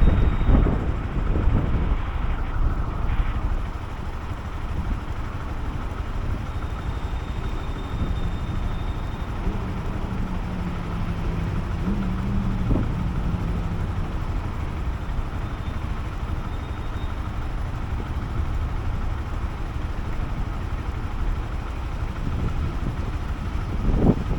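Honda CB125F's small single-cylinder engine running steadily under an even low rumble, with a faint humming tone for a few seconds in the middle.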